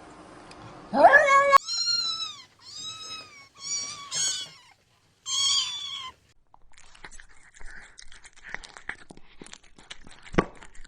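A cat meowing: a rising call that cuts off abruptly, then four short, high-pitched meows, each rising then falling. After them come faint scratching and clicking, with one sharp click near the end.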